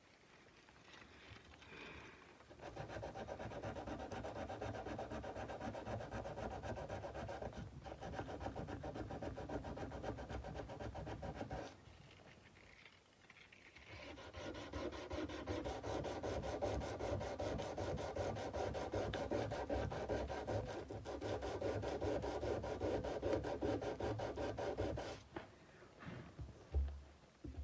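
Sandpaper rubbed back and forth by hand along a steel kukri blade in quick, steady strokes. It runs in two long spells with a short pause between, and there is a low knock near the end.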